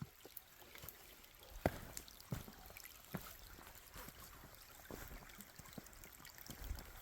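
Footsteps on a trail, a little more than one a second, over the faint trickle of a shallow creek.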